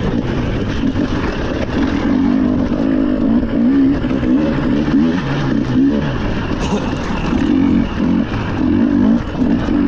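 Rally car engine revving hard under load, its pitch repeatedly climbing and dropping as the driver accelerates, lifts and shifts gears.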